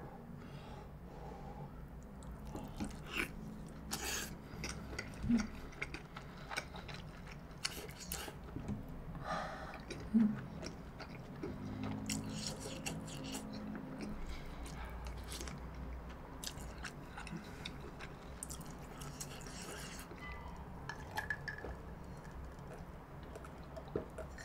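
Close-miked chewing of a mouthful of pork and rice: soft wet mouth sounds and small smacks, with a few louder smacks about five and ten seconds in.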